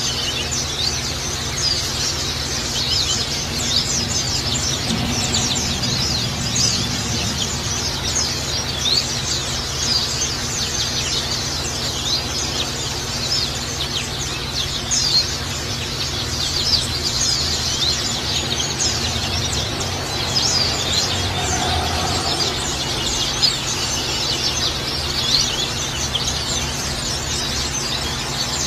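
Small songbirds chirping and twittering busily and continuously over the steady splashing trickle of running water.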